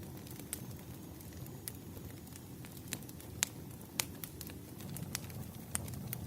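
Campfire burning: a steady low rumble of flames with scattered sharp crackles and pops, two of them louder about three and a half and four seconds in.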